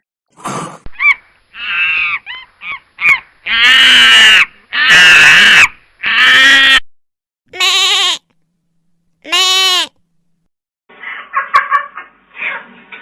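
A series of animal calls: a few short calls, then several long, loud, wavering calls, two shorter calls, and a run of short choppy calls near the end.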